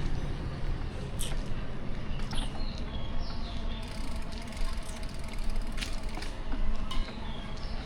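City street traffic heard from a moving bicycle: a steady low rumble with scattered sharp clicks and a few short high chirps a couple of seconds in.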